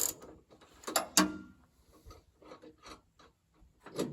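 Metal parts of a band sawmill being handled during a blade change: irregular knocks and scraping, with a sharp clank just after a second in.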